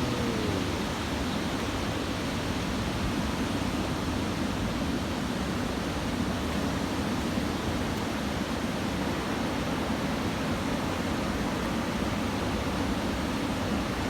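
Steady, unbroken wash of breaking surf from typhoon swell.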